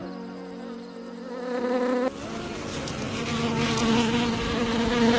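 Bees buzzing in flight: a steady hum that wavers a little in pitch. About two seconds in it changes abruptly to a louder, fuller buzz.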